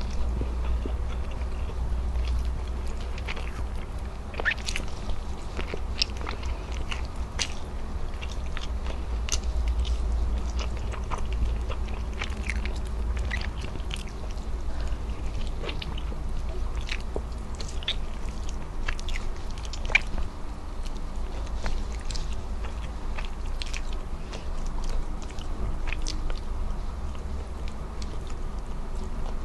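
Close-miked chewing and lip smacking: wet mouth sounds with many sharp clicks, over a steady low rumble.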